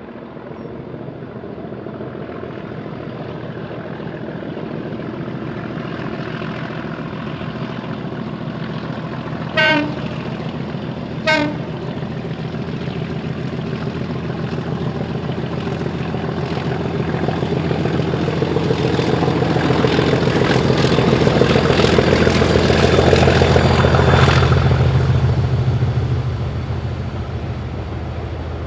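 Heritage railway locomotive sounding two short toots, then working past hauling its train: the running sound grows, is loudest a little over twenty seconds in, and then fades.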